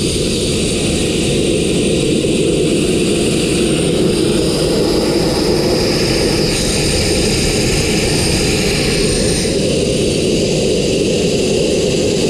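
Abrasive blaster running: compressed air and fine crushed-glass media jetting from the blast nozzle, a loud, steady rushing hiss that grows brighter for a few seconds in the middle.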